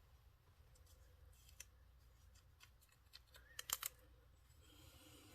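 Near silence broken by a few faint clicks of small tools being handled, with a short cluster of louder clicks about three and a half seconds in.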